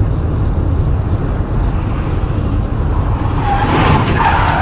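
Car on the road, its steady low engine and road rumble heard from the vehicle, with a brief higher-pitched wavering sound coming in near the end.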